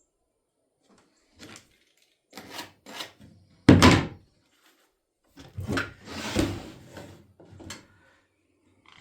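Pieces of wooden trim being handled and set down: a series of separate knocks and thuds, the loudest about four seconds in, with a scraping rustle around six seconds.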